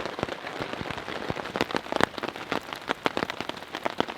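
Heavy rain on a tarp shelter overhead: a steady hiss of rainfall with many separate, irregular drop impacts striking the tarp, a few of them sharper and louder.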